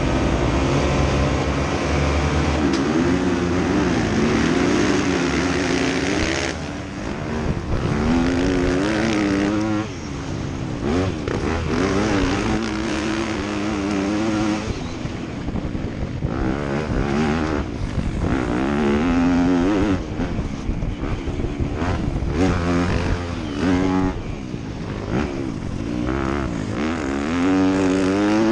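Motocross dirt bike engines racing, the pitch repeatedly rising and falling as the riders open and close the throttle and shift gears. The sound is densest for the first six seconds or so and then thins to one or a few bikes passing.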